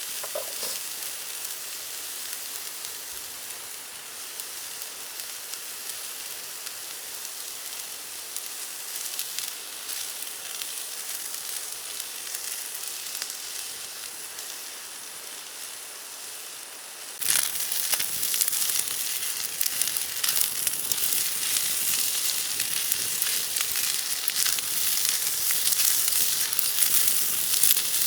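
Fried rice sizzling in a pan over a campfire: a steady, fairly quiet sizzle that jumps suddenly louder, with dense crackling, about two-thirds of the way in, as if fresh food or oil hit the hot pan.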